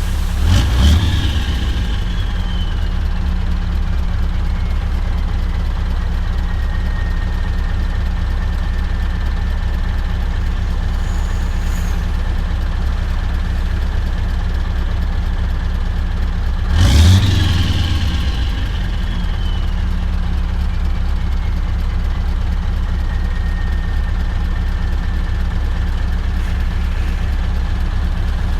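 Scania V8 diesel truck engine running steadily under way. About a second in and again about 17 s in there is a short loud burst, each followed by a high whine that falls in pitch over several seconds.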